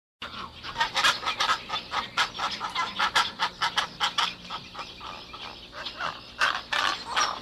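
A bird calling in a rapid run of short, sharp notes, several a second, that continue throughout.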